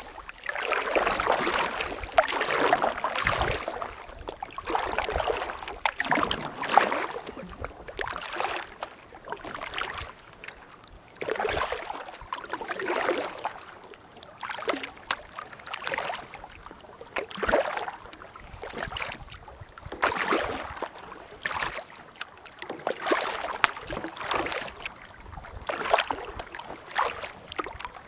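Kayak paddle strokes in the water: a steady run of splashing swishes, about one every second and a half.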